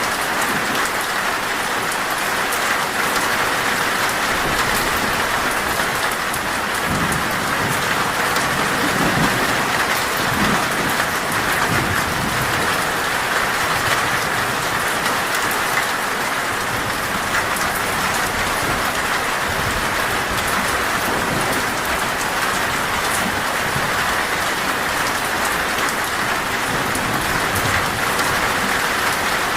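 Heavy rain drumming steadily on a metal roof, with a low roll of thunder rumbling about a quarter to a third of the way in.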